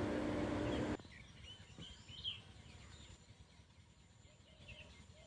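A steady low hum that cuts off about a second in, leaving faint outdoor background with a few distant bird chirps.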